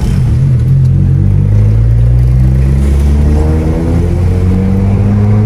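Honda City GM's engine pulling hard under acceleration, heard from inside the cabin: its pitch drops about a second and a half in, like a gear change, then climbs steadily. It is a hard test pull on the freshly fitted racing clutch.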